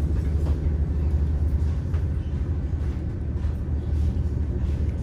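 Steady low rumble of an ÖBB passenger train running, heard from inside its dining car.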